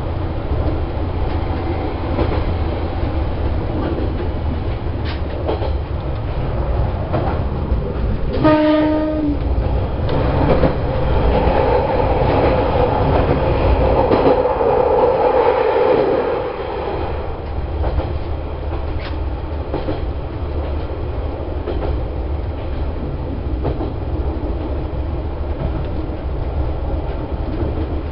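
Watarase Keikoku Railway diesel railcar running along the track, heard from inside, with wheels clicking over rail joints. About a third of the way in it sounds its horn once, a single-pitched blast of about a second. Then the running noise grows louder for about six seconds while it passes through a tunnel.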